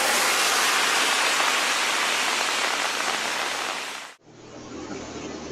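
Steady loud hiss of rushing water, which cuts off abruptly about four seconds in and gives way to a fainter, duller hiss with a low hum.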